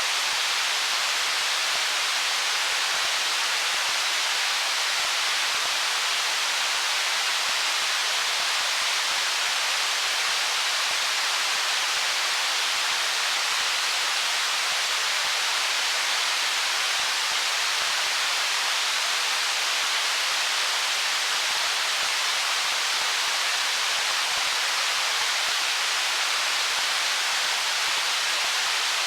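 Steady, even rush of a stream flowing over stones, a constant hiss-like wash of water with no gurgles or changes standing out.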